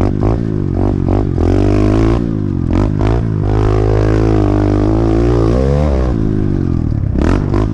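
Pit bike engine revving as it is ridden along a dirt track, its pitch repeatedly rising and falling with the throttle.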